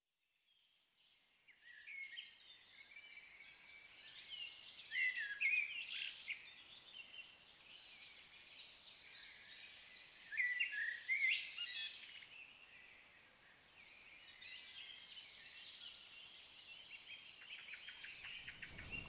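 Songbirds singing and chirping, starting about a second and a half in, with louder phrases of song around five and eleven seconds in.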